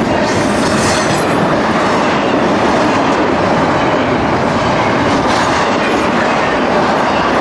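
Freight train cars rolling past, a loud, steady rumble and clatter of steel wheels on rail.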